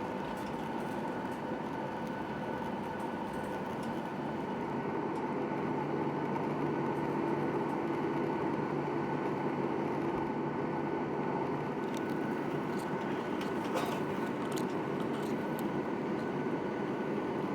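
Steady cabin noise inside a Boeing 737-800 airliner: an even rumbling hum with a few fixed tones in it, growing slightly louder about five seconds in, with a few faint clicks or rattles near the end.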